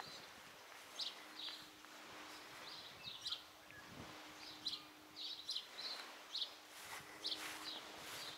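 Small birds chirping: many short high chirps in quick succession, over faint outdoor background noise.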